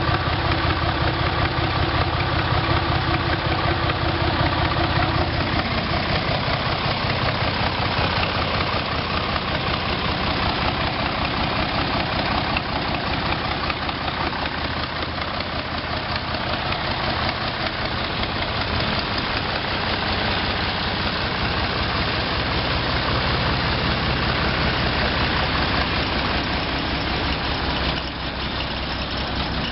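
Deutz diesel engine idling, dropping slightly in speed about five seconds in and settling. It runs a little off because its turbo is not yet hooked up.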